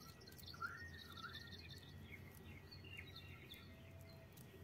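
Near silence, with a few faint bird chirps in the background, mostly in the first second or two.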